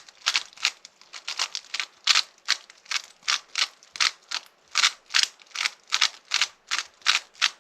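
Rubik's cube being turned quickly by hand: a rapid, uneven string of plastic clicks and clacks as the layers snap round, about three a second, stopping near the end.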